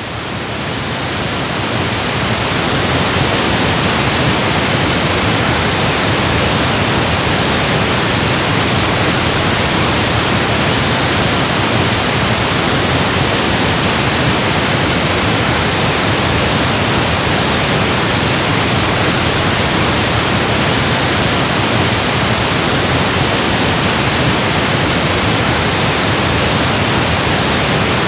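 Electronically generated pink noise, an even, steady hiss across the whole range. It fades in over the first few seconds, then holds level.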